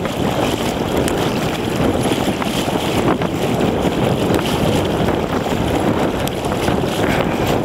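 Steady rushing of floodwater gushing up from a street geyser, an overflowing storm sewer, with wind buffeting the microphone.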